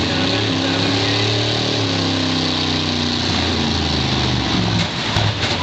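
Several eight-cylinder demolition derby car engines running and revving, their pitch rising and falling, with a couple of sharp knocks near the end.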